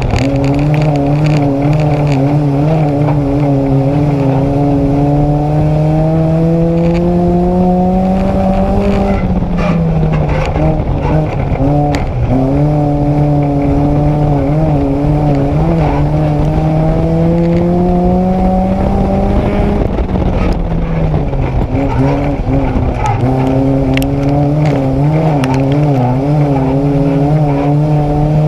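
Nissan Micra race car's engine heard from inside the car at racing speed, its pitch climbing steadily for several seconds, then falling as the driver lifts, a cycle that repeats about three times, lap after lap. Scattered sharp knocks sound over the engine.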